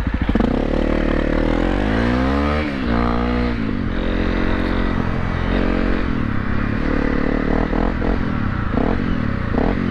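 Honda CRF250 dirt bike's single-cylinder four-stroke engine under way. It revs up under acceleration, its pitch rising about two seconds in, drops at a gear change near three seconds, then runs on at a steadier speed.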